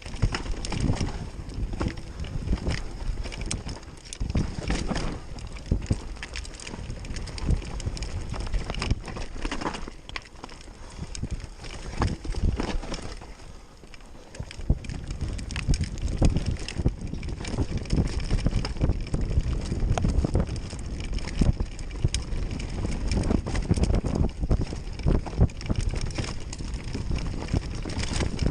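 A rough ride over a trail: a continuous rumble with dense rattling and knocking, and wind buffeting the microphone. It eases for a few seconds around the middle, then picks up again.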